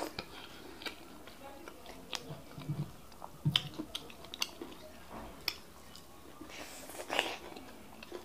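Open-mouthed chewing and lip-smacking of fufu and bitter leaf soup eaten by hand, with short sharp wet smacks scattered throughout and a louder stretch near the end.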